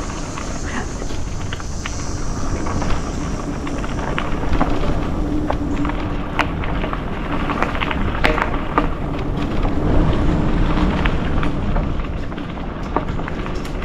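Mountain bike descending a dirt trail: wind rushing over the microphone and tyres on dirt, with frequent short rattles and knocks from the bike over rough ground.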